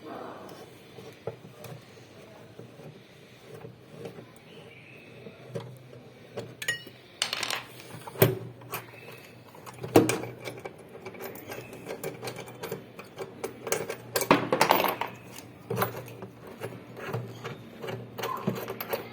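Irregular metallic clicks, knocks and scrapes of hand tools and loose parts, heard while a fully automatic washing machine's motor and clutch are being taken apart, with a few louder knocks.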